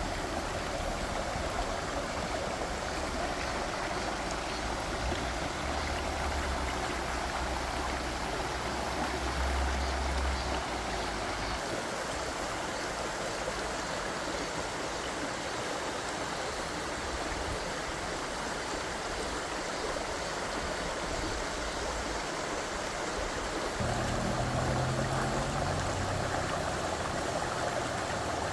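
Mountain valley stream running steadily over rocks. A low rumble comes in twice, from about six to eleven seconds in and again near the end.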